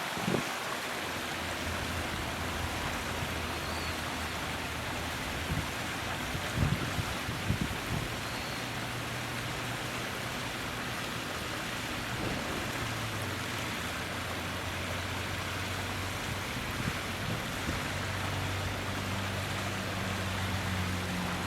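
Steady rushing noise of flowing water, with a low steady hum like a distant engine underneath and a few soft knocks about a quarter of the way in.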